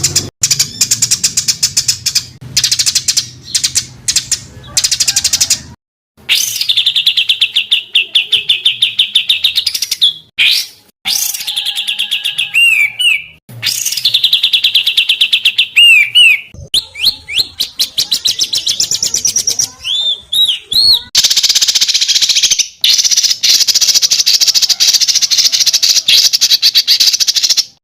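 Songbirds singing dense, harsh rapid-fire song: fast rattling trills and quickly repeated notes with a few looping whistles. The song breaks off abruptly several times and restarts with a new phrase, as edited clips of a bird-song tutor recording are spliced together.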